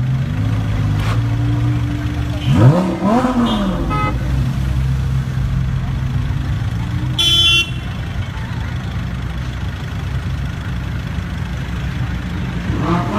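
Sports car engines running with a steady low hum. The revs are blipped once, rising sharply and falling away, about two and a half seconds in, and again near the end. A short car horn beep sounds about seven seconds in.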